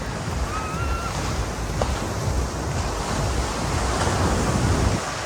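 Surf washing up the beach: a noisy roar that swells for several seconds and falls away near the end, with wind buffeting the microphone. A brief whistle-like tone sounds about half a second in.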